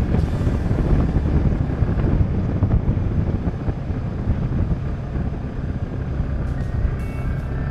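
Polaris Ranger 570 side-by-side's single-cylinder engine running steadily under way, with wind noise on the microphone.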